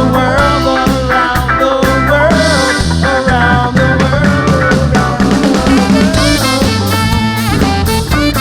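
Live rock band playing an instrumental passage: drum kit, bass guitar and electric guitar under a bending melodic lead line, with no singing.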